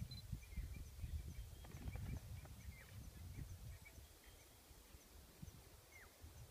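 Faint bird calls, short high chirps and one falling whistle near the end, over a low irregular rumble.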